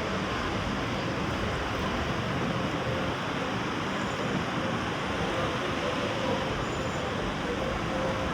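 Steady outdoor ambience: a continuous, even wash of noise with no distinct events standing out.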